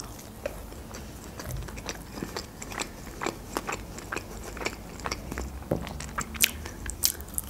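Close-up eating sounds of a person biting into and chewing a piece of grilled wrap: a steady run of small sharp mouth clicks and crunches, several a second, with a cluster of louder ones near the end.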